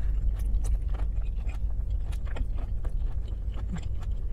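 Close-up chewing of a mouthful of shrimp and Alfredo pasta: soft wet mouth clicks and smacks, with the fork clinking against the plate near the end, over a steady low rumble.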